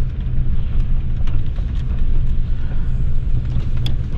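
Steady low rumble of a motorhome in strong wind, with a few light clicks and rattles.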